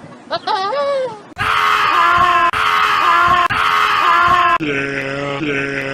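Goats and sheep bleating in a run of separate clips: a wavering bleat first, then three loud, harsh, scream-like bleats of about a second each, then shorter, deeper bleats held at one pitch, repeating near the end.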